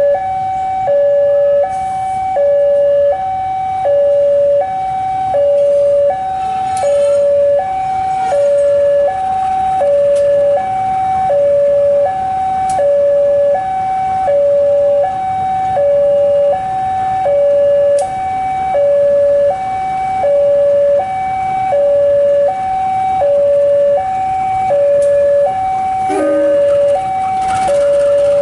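Electronic two-tone hi-lo alarm, a higher and a lower tone alternating evenly about every three-quarters of a second and repeating without pause.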